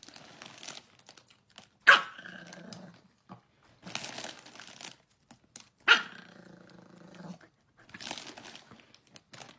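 A chihuahua barking twice, about four seconds apart; the second bark is drawn out for over a second. Rustling noise comes in between.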